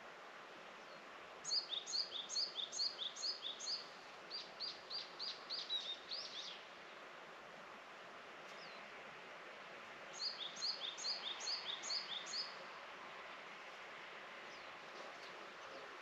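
A songbird singing two phrases of quick, repeated high chirps, the first about a second and a half in and the second about ten seconds in, over a steady outdoor hiss.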